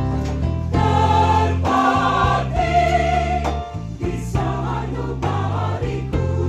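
Church choir singing a hymn in held chords over a steady low bass.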